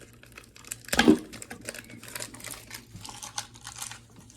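Small plastic toy packaging being worked open by hand: scattered crinkles and light clicks, with one louder knock about a second in.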